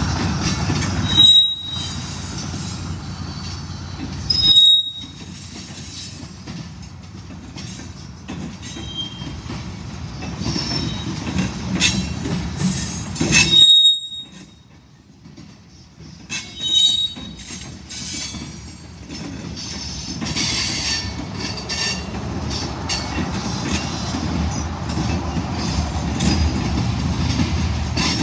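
Freight cars rolling slowly past, a steady low rumble of wheels on rail with several short, high-pitched wheel squeals, about a second in, around five seconds, and twice in the middle. The rumble dips briefly in the middle and grows louder toward the end.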